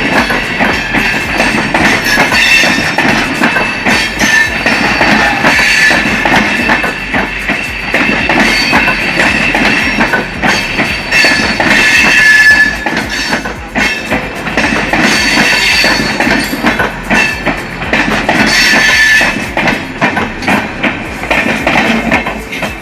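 Passenger express train rolling past at a station: the carriages' steel wheels clack over the rail joints, with high squealing from wheels and brakes coming and going as it slows on arrival. The clacking grows sparser and quieter near the end.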